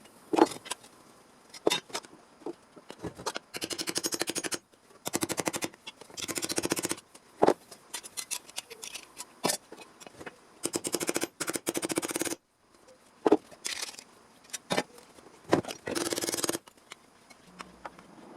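Hand tools working a small sheet-steel panel: repeated rasping strokes, each about a second long and made of fast fine ticks, with sharp single clicks in between.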